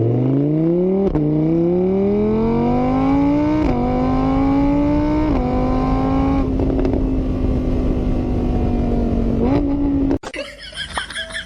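Car engine accelerating hard through the gears: its pitch climbs, drops back at each of three shifts, then holds steady before a short rise and a sudden cut-off near the end.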